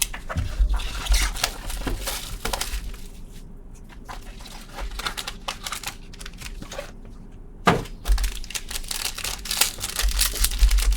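Trading-card packaging and cards being handled: plastic crinkling, rustling and small clicks, with one sharper knock near the end.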